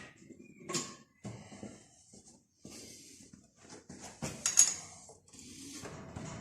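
Irregular clinks and knocks of metal tools and engine parts being handled during engine repair work, the sharpest knock about four and a half seconds in.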